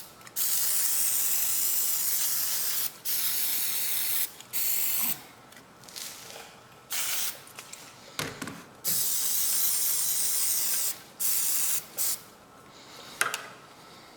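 Aerosol can of carburettor cleaner spraying onto a small engine's throttle and governor linkages. It comes in a series of hissing bursts, the longest a couple of seconds, others brief, with short pauses between them.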